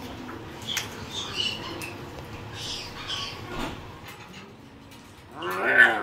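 Birds giving several short, high chirps, then a louder drawn-out cry near the end.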